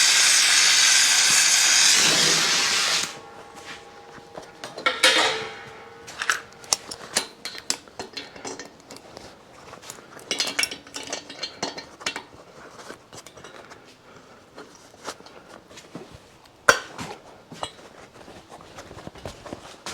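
A gas torch hissing steadily, shut off about three seconds in; then a run of light metallic clinks and knocks from tools being handled on the heated cast-aluminium cylinder, with one sharper knock near the end.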